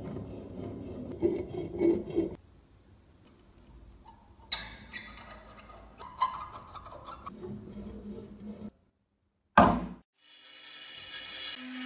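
Antique meat grinder parts handled and worked: rubbing and scraping, then a run of clanks with a ringing metallic tone, a single sharp knock, and a hiss that swells near the end.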